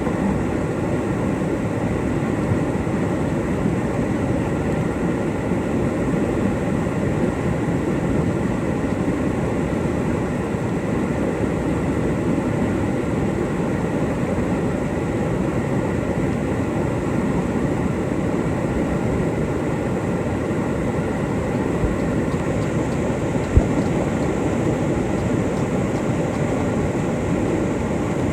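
Whitewater rapids of a mountain river rushing steadily, with a single brief knock about three quarters of the way through.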